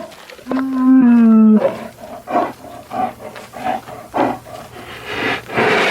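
A bear calling: a pitched cry about half a second in, lasting about a second and falling slightly in pitch, then a run of short rough calls about two a second.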